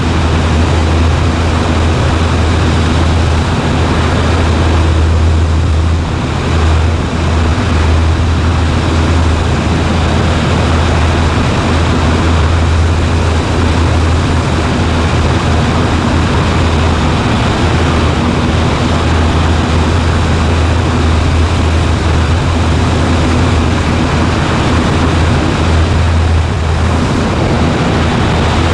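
Cessna 140A light plane's piston engine and propeller running steadily, a loud, unbroken drone with a strong low hum.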